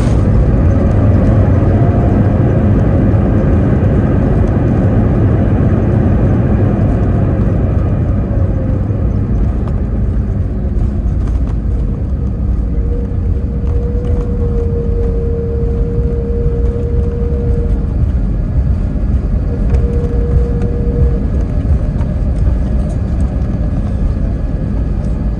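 Cabin noise of an Airbus A321 slowing after landing: a loud rumble of engines and rolling wheels that eases as the aircraft decelerates. About a third of the way in a whine falls in pitch, and midway a steady tone sounds for several seconds, then briefly again.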